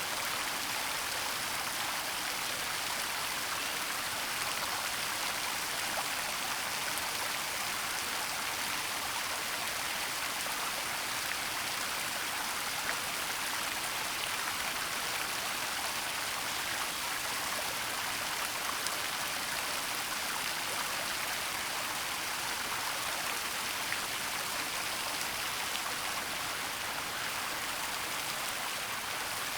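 Waterfall and running stream water making a steady rushing hiss, even throughout, with a few faint ticks of splashing droplets.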